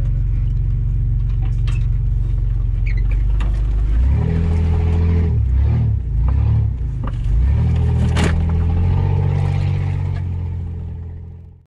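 Off-road 4x4's engine running at low revs as it crawls over rough ground, revving up and down for a few seconds about four seconds in before settling again, with a few knocks from the vehicle. The sound fades out near the end.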